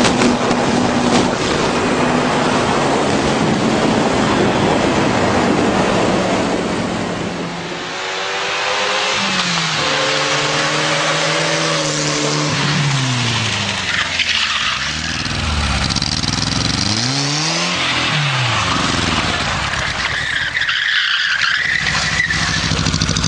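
Rushing wind and road noise at first. From about eight seconds in, the engine of a motorcycle built from a VAZ-2108 car revs up and down several times, its pitch rising and falling in repeated swoops. A hissing noise follows near the end.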